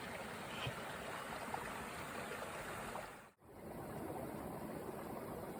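Steady rush of flowing water. It cuts out sharply for an instant about three seconds in, then carries on as before.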